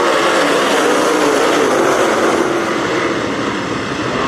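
A field of dirt-track race cars running together on the track, their engines a loud, dense drone with pitches wavering up and down as the cars change speed.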